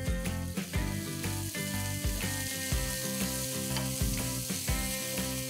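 Chopped onion sizzling in hot oil with cumin and garlic in a kadhai, stirred with a wooden spatula, over background music with a steady beat.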